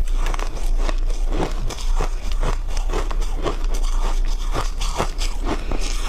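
Close-up biting and chewing of ice: an irregular run of sharp crunches, a few a second, over a steady low hum.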